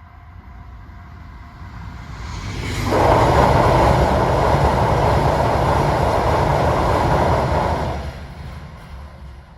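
Yamagata Shinkansen train passing at high speed. The rushing noise swells over about three seconds, turns suddenly loud as the train goes by for about five seconds, then drops off and fades as it recedes.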